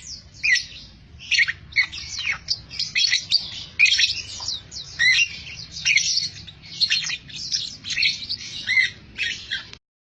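Lovebird chirping: a continuous run of short, rapid, high-pitched chirps and squeaks in quick clusters, cutting off abruptly near the end.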